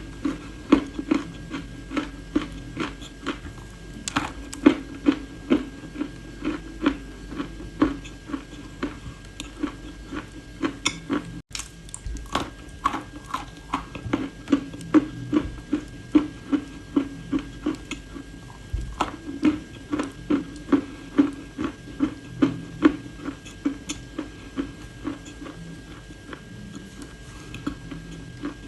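Close-miked crunching and chewing of hard, chalky edible clay: sharp crunches about two a second throughout, over a faint steady hum.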